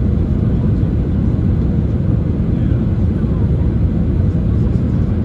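Steady low rumble of an airliner's jet engines.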